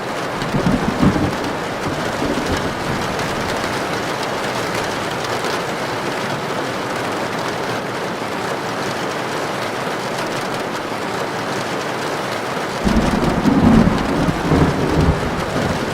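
Heavy rain drumming steadily on a tin roof, with a short roll of thunder early on and a louder, longer rumble of thunder near the end.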